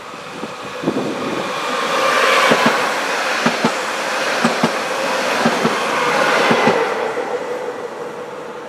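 A train passing close by on the track: wheels clicking over rail joints in quick pairs over a rising then fading rumble with a faint steady whine, loudest in the middle and tapering off near the end.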